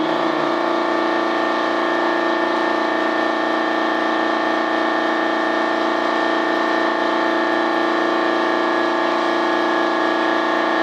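Steady machine hum with several fixed tones and a hiss, holding constant with no change in pitch or level.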